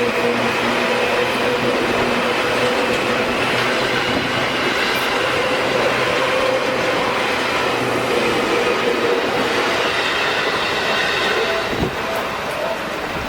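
Seibu Shinjuku Line train running past over the level crossing, a loud steady rumble of wheels on rail that eases off near the end.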